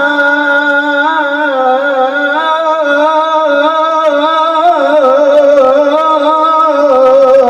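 A man singing sholawat in a qari's melismatic style, holding one long ornamented phrase that wavers up and down in pitch without a break.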